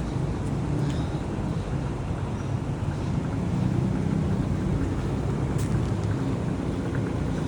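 Road traffic, a steady low hum of vehicle engines running along the street.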